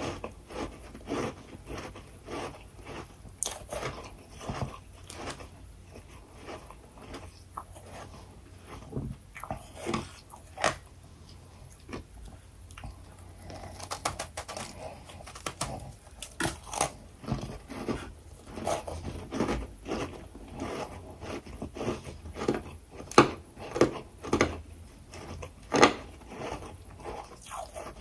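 A person biting and chewing freezer frost, with irregular crunches throughout and a few louder crunches near the end.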